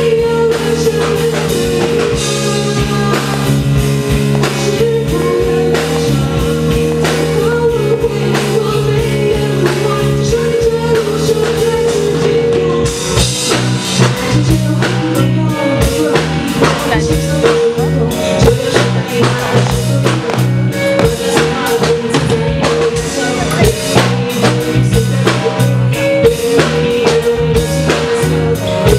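Live band playing loud, with sustained keyboard-like tones over bass and drum kit; about halfway through, the drums and cymbals come in harder and the playing grows denser.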